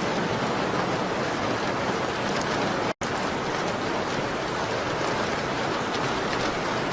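Steady rain on a window: a dense, even hiss with faint scattered ticks. The sound drops out completely for an instant about three seconds in.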